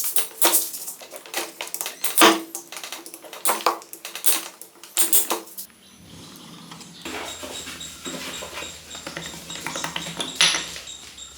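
Metal engine parts and hand tools clinking and knocking: a run of separate sharp knocks for about six seconds, then a busier stretch of small rattles over a faint hum.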